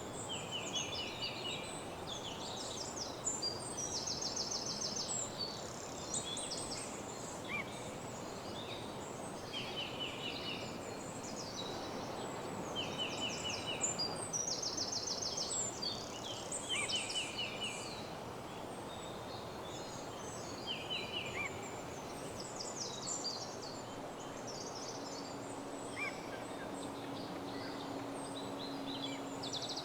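Several woodland birds singing in a morning chorus: repeated fast trills about a second long and scattered high chirps, over a steady background hiss.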